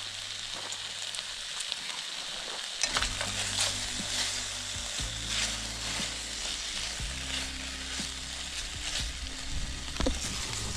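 Food frying in a pan: a steady sizzle with frequent small pops and spits.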